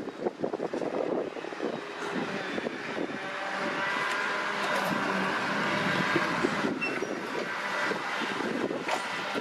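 New Holland T6070 tractor's diesel engine running under load while pulling a CLAAS Liner rotary rake, with a faint steady whine over the engine noise. It grows louder toward the middle and eases slightly near the end. Wind buffets the microphone in the first couple of seconds.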